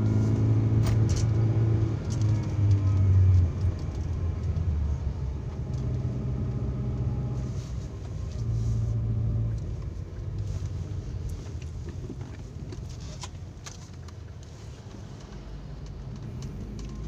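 Daihatsu Terios engine and road noise heard from inside the cabin, driving up a climbing road. A steady low hum, louder for the first three seconds or so, then settling quieter.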